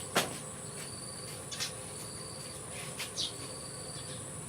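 Insects droning steadily at a high pitch, with short repeated chirps. A sharp click comes just after the start, and two fainter ones follow at about a second and a half apart.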